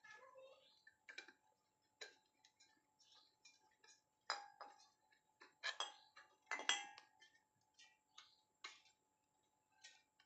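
Irregular light metallic clicks and taps of a refrigerator freon tap valve and hand tools being handled and fitted, with a few louder clicks about four, six and seven seconds in.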